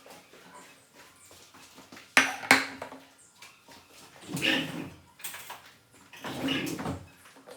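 Two sharp clinks of tableware a couple of seconds in, followed by two longer, noisier bursts.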